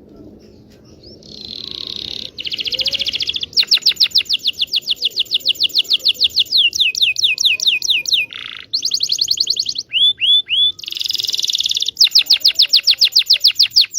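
Local Indonesian canary singing a long, loud song of rapid trills and rolls: each phrase a fast run of one repeated high note, switching to a new phrase every second or two. This is the kind of lure song played to coax silent or young canaries into singing.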